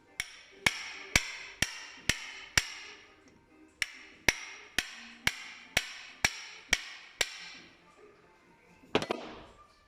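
Hammer blows on metal, about two a second, each leaving a short ring. The blows pause briefly near the middle, then end with a quick cluster of hits.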